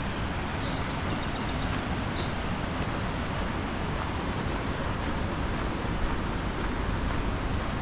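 Steady outdoor rushing noise, with a few faint high chirps in the first three seconds.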